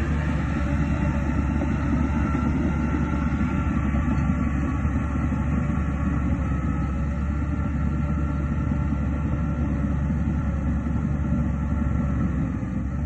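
Heavy diesel earthmoving machinery running steadily under load, a continuous low engine drone with no breaks.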